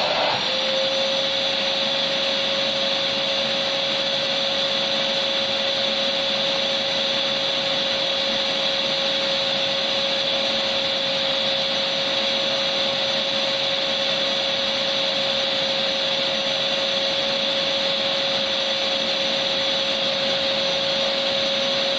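Electric vacuum cleaner running steadily: an even rushing hiss with a constant motor whine. Just at the start the whine rises slightly in pitch and then holds steady.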